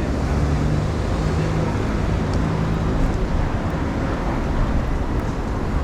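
City street noise with the steady low hum of a motor vehicle engine running close by, fading into general traffic noise about halfway through.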